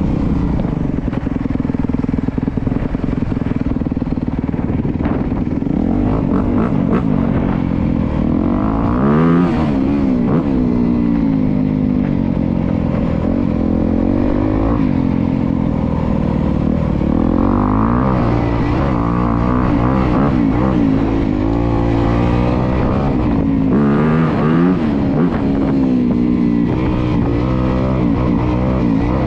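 Honda CRF250R's single-cylinder four-stroke engine under riding load, fairly steady at first, then revving up and dropping back over and over every couple of seconds as the throttle is worked on and off.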